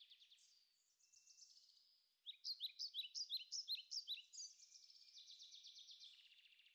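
Faint birdsong: songbirds chirping and trilling, with a louder run of quick, repeated down-slurred chirps in the middle.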